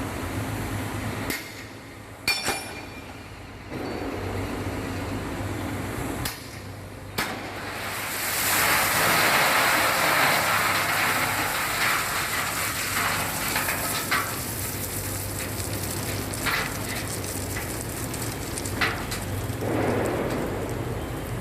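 Old Hyundai dump truck's diesel engine running with a steady low hum, joined about eight seconds in by a broad hissing rush that stays on, with a few sharp clicks.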